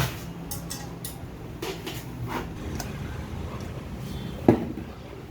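Metal tools and turbocharger parts clinking and knocking during hand assembly, a few light clicks with one sharp knock about four and a half seconds in.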